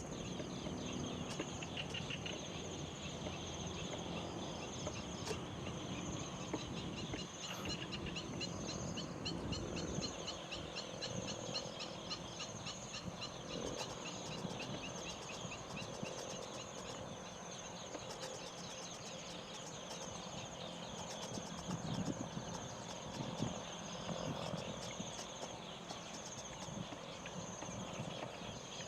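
Rural evening insect chorus: a steady high-pitched drone and a fast pulsing trill, with occasional bird and fowl calls mixed in.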